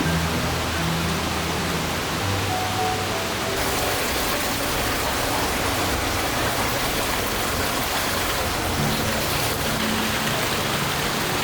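Soft ambient music with slow, held low notes over a steady rush of flowing water. The water noise turns brighter a few seconds in.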